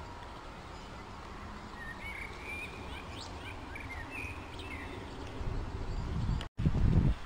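Birds chirping now and then over steady outdoor background noise. A louder low rumble builds in the last couple of seconds, broken by a brief dropout.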